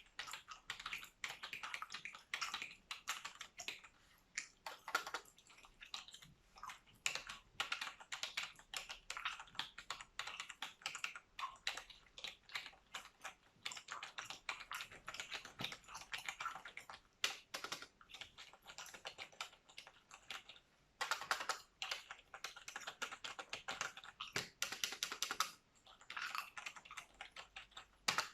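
Computer keyboard typing close to the microphone, in quick runs of key clicks with a short pause about two-thirds of the way through, alongside gum chewing.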